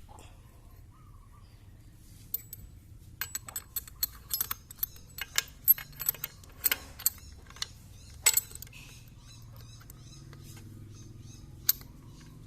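Sharp metallic clinks and taps of tools and small engine parts being handled. They come in an irregular quick cluster from about two seconds in until about eight seconds, with one more near the end.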